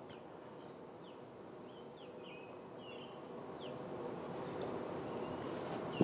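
Small birds chirping, short quick calls repeated over a steady low background rumble that grows a little louder.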